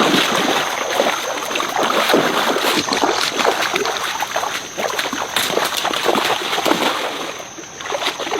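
Water splashing and sloshing continuously, with a steady thin high tone underneath; the splashing eases briefly near the end.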